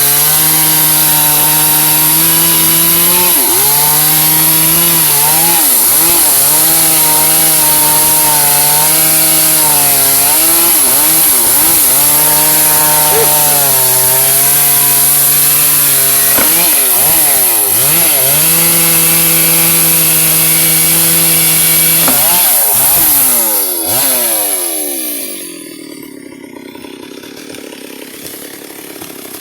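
Two-stroke chainsaw cutting through white albizia wood at full throttle, its engine pitch sagging and recovering as the bar loads up in the cut. Near the end it comes out of the cut and winds down to a much quieter idle.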